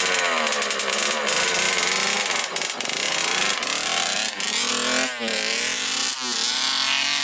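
Dirt bike engine revving, its pitch rising and falling again and again as the throttle is worked.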